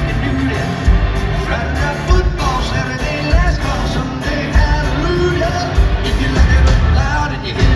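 Live country-rock band playing loud through a concert PA, with a male lead vocal over heavy drums and bass.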